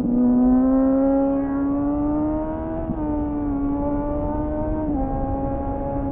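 The inline-four engine of a 2001 Suzuki GSF 600 Bandit, heard onboard through a loud aftermarket slip-on exhaust fitted with a homemade dB-killer, pulling under way. Its pitch climbs slowly for about three seconds, then drops a little about three seconds in and again about five seconds in, over a rumble of wind and road noise. The sound is slightly muffled.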